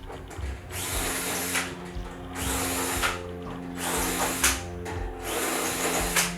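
Power drill run in four short bursts of about a second each, typical of deburring holes in the aluminium wing parts.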